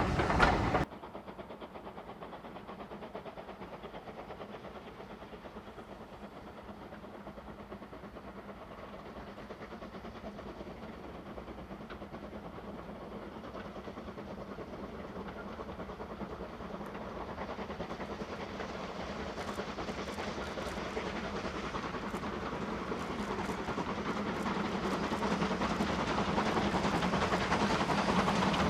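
Steam train, double-headed by two locomotives, approaching and growing steadily louder. Just under a second in, a louder passage of train noise cuts off abruptly.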